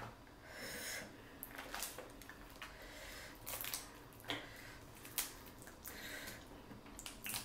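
A person chewing a mouthful of seafood boil close to the microphone, with scattered soft wet smacks and clicks.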